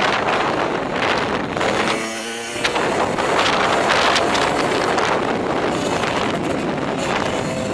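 A vehicle running at speed, with heavy wind noise buffeting the microphone and a short pitched tone about two seconds in.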